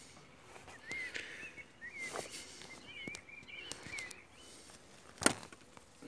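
Faint bird chirping, a run of short twittering notes in the first two-thirds. A few light clicks, and one sharp knock about five seconds in.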